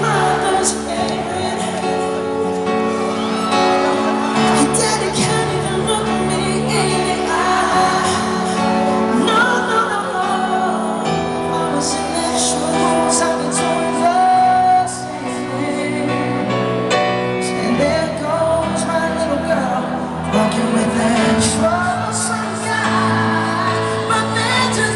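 Live pop ballad performance: a lead voice singing over a band's held chords, recorded from the audience in a large venue.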